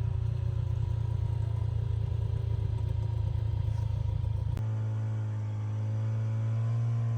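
Snowmobile engine running steadily on the trail. About two-thirds of the way through, the sound changes abruptly to a smoother, even-pitched engine hum.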